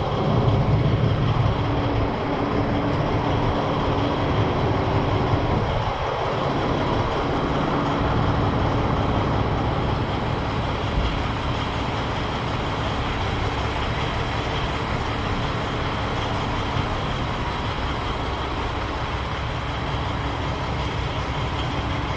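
Semi truck's diesel engine running steadily, a low continuous hum with no sudden events.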